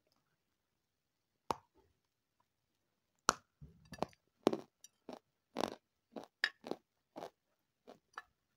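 Crisp shortbread cookie being bitten and chewed close to the microphone: a loud crunch about three seconds in, then a run of separate crunchy chews, about two a second.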